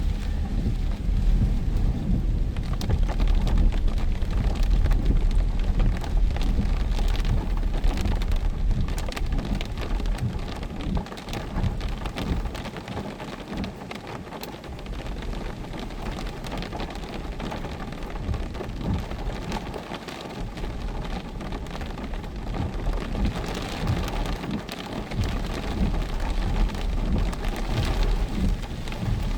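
Heavy rain in a windstorm: a dense patter of drops over a strong low rumble. The rain eases in the middle and picks up again near the end.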